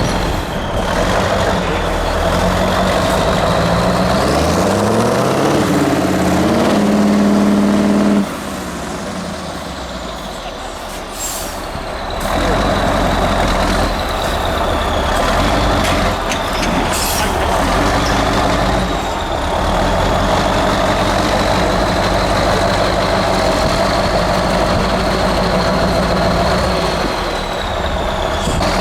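Diesel engine of a heavy 8x8 trial truck working hard off-road, revving up and then dropping off the throttle suddenly about eight seconds in, before pulling strongly again. Two short hisses of air come near 11 and 17 seconds.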